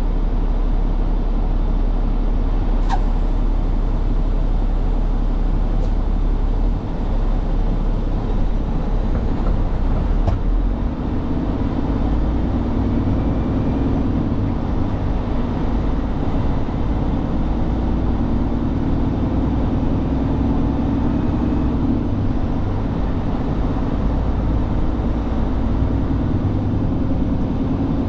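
Truck engine running with road noise, a steady low rumble. A single sharp click comes about three seconds in, and an engine hum grows stronger from about ten seconds in.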